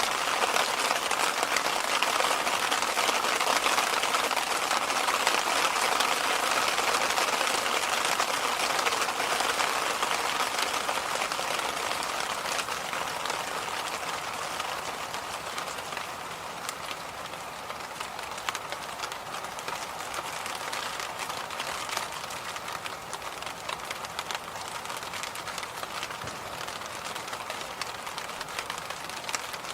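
Electric fan running, a steady rush of moving air that gets somewhat quieter about halfway through.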